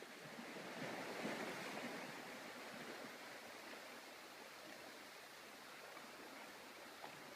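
Steady rush of a waterfall's falling water, swelling louder about a second in and then easing back to an even hiss.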